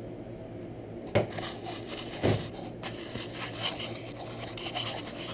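Two dull knocks about a second apart, followed by light scraping and handling noises, over a steady low hum.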